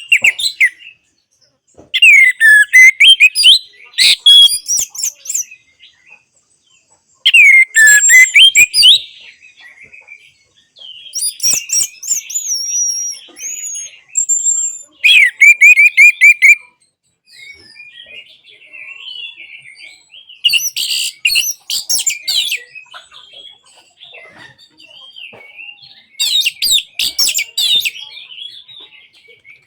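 Orange-headed thrush singing: loud phrases of rapid whistles, trills and chattering notes, each lasting one to three seconds, with short pauses between them.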